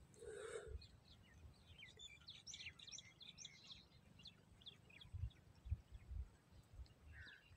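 Faint chirping of birds: many short, quick calls scattered over a quiet rural background, with a few soft low thumps about five to six seconds in.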